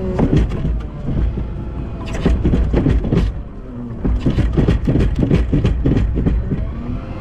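Volvo L90F wheel loader running under load, with two runs of rapid clattering knocks, one about two seconds in and a longer one from about four seconds in.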